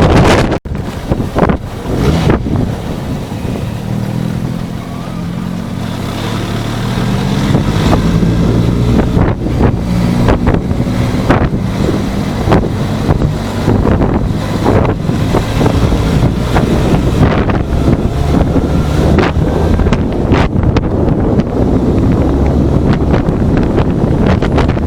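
Benelli TRK 502 parallel-twin engine running under heavy wind buffeting, as picked up by a motorcycle dashcam's microphone while riding. The engine note climbs for a few seconds as the bike speeds up, then holds steady among the rush and thumps of wind.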